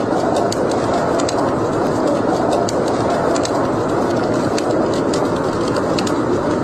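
Wood fire burning in a fireplace: a steady rushing noise of the flames with frequent small, sharp crackles and pops from the burning logs.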